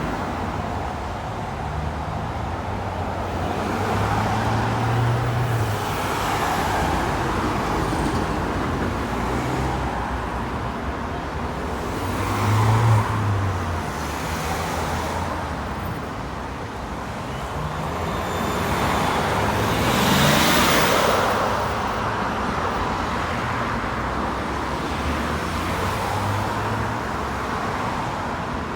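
Road traffic passing a busy street: a steady run of cars and larger vehicles going by one after another, the tyre and engine noise swelling with each pass. The loudest pass comes about two-thirds of the way through.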